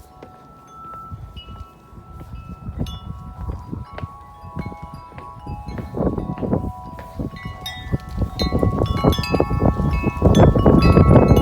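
Large Corinthian Bells wind chime with 36-inch tuned aluminium tubes, ringing in strong gusts: many strikes overlap and sustain, growing louder and busier toward the end. Wind rumbles on the microphone underneath.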